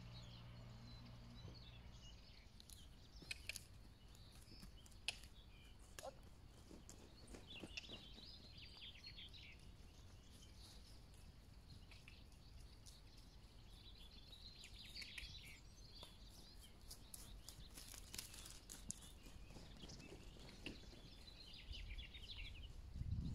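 Faint birdsong in short spells of chirping over quiet outdoor background noise, with a few soft clicks.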